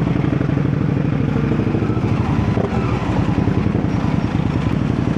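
Indian Scout Rogue V-twin motorcycle engine running steadily under way through a Jekill and Hyde electronically controlled exhaust with its valves set full open, a deep exhaust roar.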